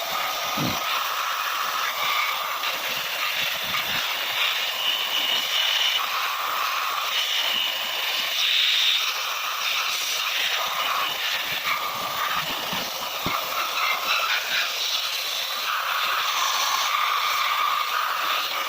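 Steady hissing and whirring of workshop machinery, with whining tones that shift in pitch and come and go.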